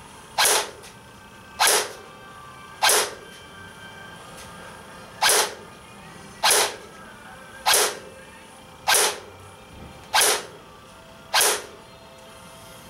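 King Arms M4A1 airsoft rifle firing single shots at about 390 FPS, nine sharp shots a little over a second apart with one longer pause after the fourth.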